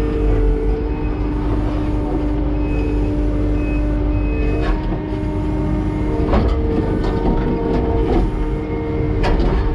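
Kubota SVL90-2 compact track loader's diesel engine running steadily under load, with a few sharp metallic clanks in the second half as it handles concrete.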